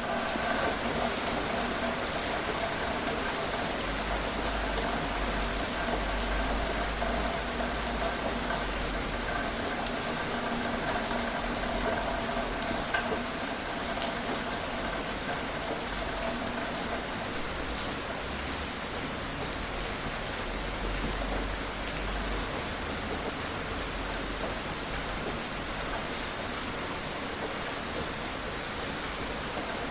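Steady gentle rain falling, an even hiss with scattered drops ticking on surfaces.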